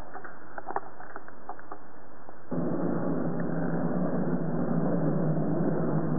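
A few light clicks, then about two and a half seconds in a Fors dishwasher starts up: a steady motor hum with even rushing noise sets in and keeps running.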